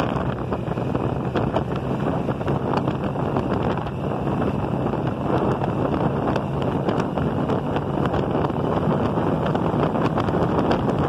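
Motorcycle riding at speed, filmed on a mounted phone: steady wind noise rushing over the microphone, with the bike's engine and road noise running underneath.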